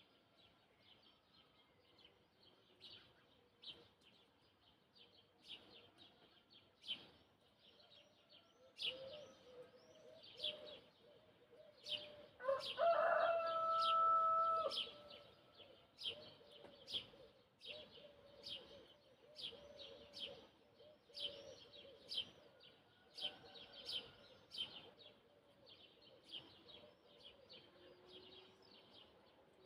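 Small birds chirping repeatedly throughout, with a rooster crowing once, a single call of about two seconds, near the middle.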